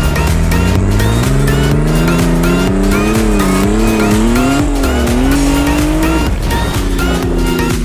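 A vehicle engine revving up, its pitch climbing for about three seconds and wavering as the throttle is worked, then falling back about six seconds in and holding steady. Electronic background music plays over it.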